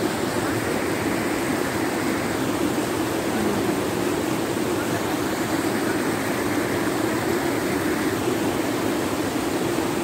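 Floodwater rushing: a loud, steady noise without breaks.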